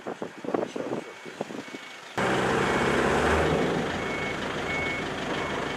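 A vehicle's reversing alarm sounding short, evenly repeated beeps over a running engine's low rumble and loud noise, which start suddenly about two seconds in after quieter knocking.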